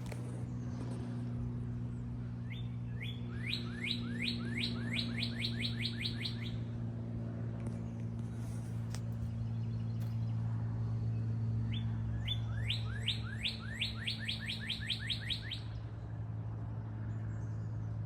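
A songbird sings twice, each song a quickening run of about a dozen falling notes, the first starting a few seconds in and the second after about twelve seconds. A steady low hum runs underneath.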